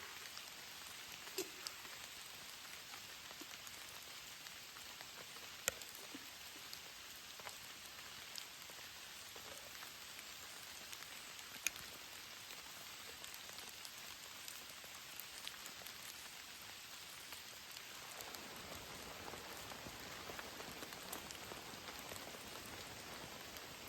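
Rain falling steadily, with scattered sharp drop hits standing out from the hiss. The sound grows fuller and deeper about three-quarters of the way through.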